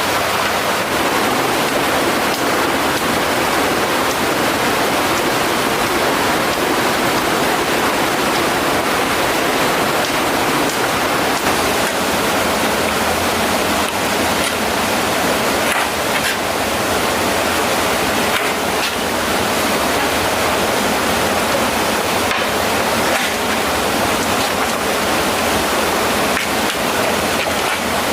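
Mountain stream water rushing, a loud, steady rush with no let-up.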